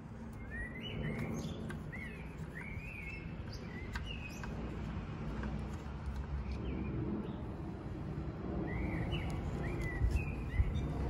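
Small songbirds chirping in short, quick phrases, in two bouts, over a low steady background rumble. A couple of light knocks near the end.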